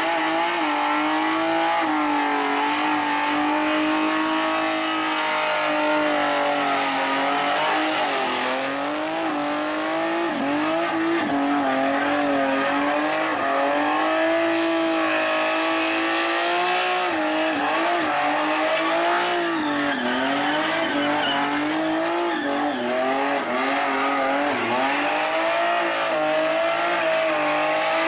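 Chrysler Centura's six-cylinder engine held at high revs through a burnout, its pitch wavering up and down as the throttle is worked, with the rear tyres spinning and squealing against the track.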